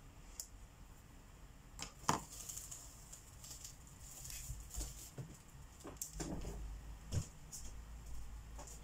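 Felt-tip markers scratching on coloring-book paper in short strokes, broken by a few sharp clicks and taps.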